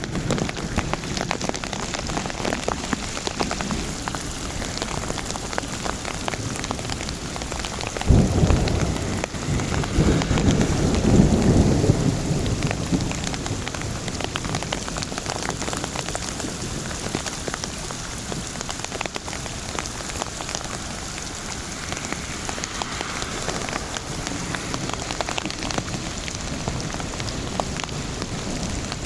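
Thunderstorm rain falling steadily, with individual drops tapping close by. About eight seconds in, a thunderclap starts suddenly and rolls on as a low rumble for around four seconds.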